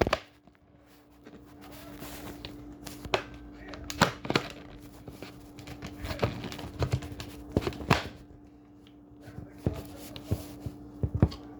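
Objects being handled: a dozen or so scattered clicks and knocks at irregular intervals, over a steady low hum.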